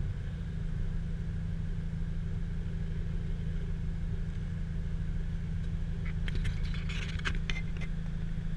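A car engine idling steadily, heard through a camera mounted on the vehicle's body. About six seconds in comes a cluster of sharp clicks and taps right at the microphone as a hand reaches for the camera.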